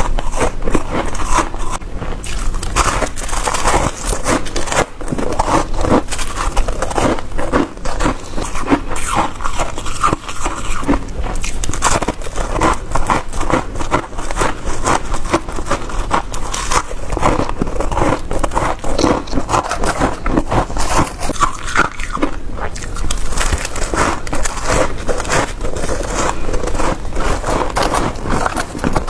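Close-up crunching of freezer frost being bitten and chewed, a dense run of quick crackling crunches.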